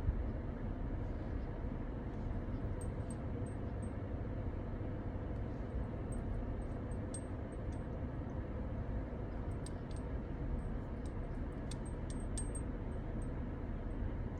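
Steady low rumble of a vehicle, with faint light clinks scattered through the middle and later part.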